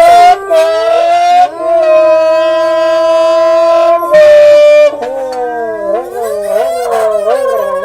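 Voices howling into open tin cans, the cans making long, coyote-like calls. One call holds a steady pitch for a few seconds, then two wavering calls overlap in the second half.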